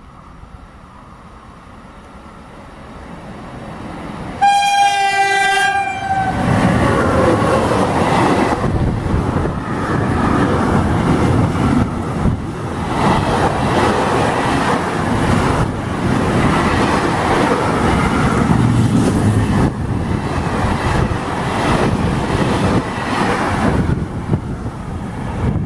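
A freight train carrying road semitrailers approaches with a rumble that grows louder. About four seconds in it sounds one horn blast lasting about a second and a half. It then passes close by at speed with a loud, steady noise of wheels and wagons.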